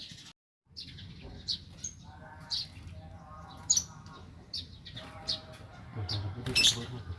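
Pet lovebird giving short, sharp high chirps, a dozen or so at irregular intervals, the loudest near the end.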